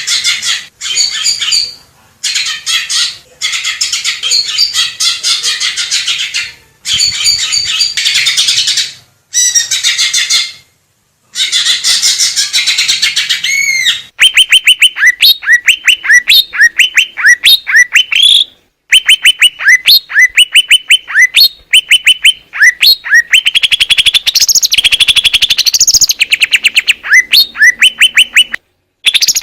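Green leafbird (cucak ijo) singing: for the first half a dense, rapid chattering warble broken by short gaps, then a fast run of sharp, repeated rising whistled notes, about three a second. The song breaks off and restarts abruptly several times.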